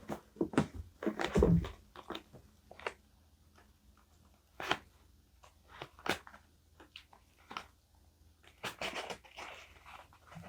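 Paper and journaling materials handled on a desk: irregular crinkles, taps and rustles, with a heavier bump about a second and a half in.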